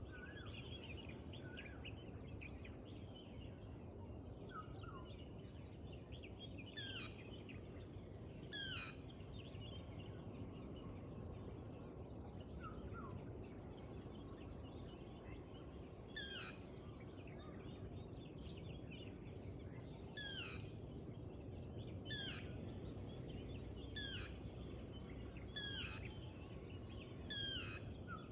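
Forest birdsong: a bird repeatedly gives a short call that slides steeply down in pitch, eight times a few seconds apart and coming more often in the second half, with a few fainter chirps from other birds in the first half. Under it is a steady high-pitched whine and a low rumble.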